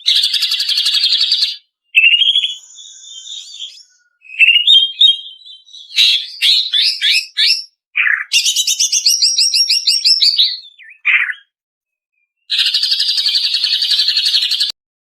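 Female greater green leafbird (cucak ijo) singing in a varied, rapid series of high trills, chatters and quick note runs separated by short gaps. The song breaks off abruptly near the end.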